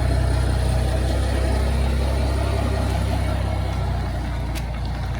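A motor vehicle's engine running with a steady low hum that eases off after about four seconds.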